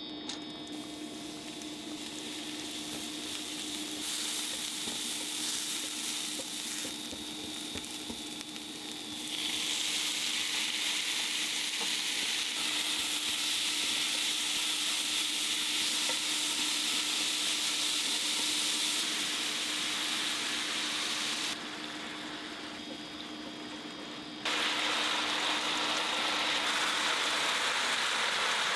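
Sliced vegetables and beef belly sizzling in hot sesame oil in a frying pan as they are stir-fried with chopsticks. The sizzle gets louder about a third of the way in and changes abruptly at edit cuts, over a steady low hum that fades near the end.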